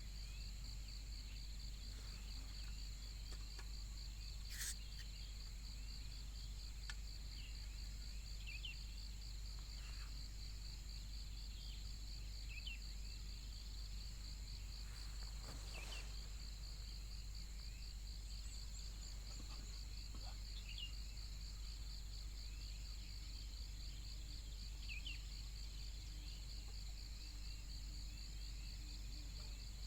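Insects trilling steadily, a faint continuous high-pitched, fast-pulsing chorus, with short chirps every few seconds over a steady low hum.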